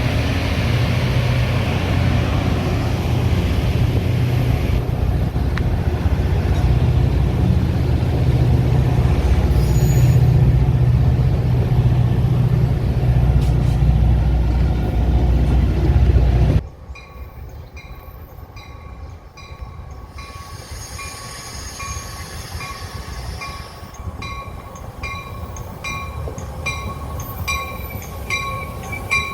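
Metra commuter train running: a loud low rumble that cuts off suddenly about two-thirds of the way through, followed by a quieter stretch of regular ticking with a faint thin ringing tone over it.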